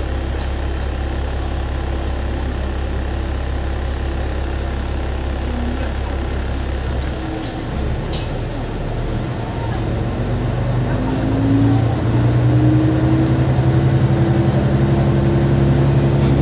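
One-car diesel railcar's engine idling steadily, then, about ten seconds in, revving up with a rising pitch and growing louder as the railcar pulls away from the stop.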